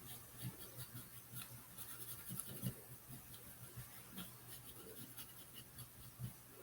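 Paintbrush strokes on the bird shack, heard as faint, irregular short scratches over a faint steady low hum.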